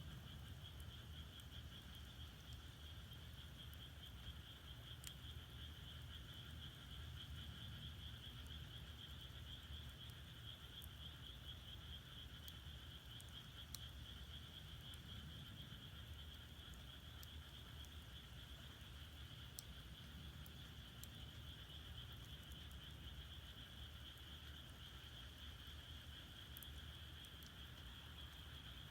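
A faint, steady chorus of frogs calling, with sparse faint snaps from firewood burning in a traditional Korean agungi furnace.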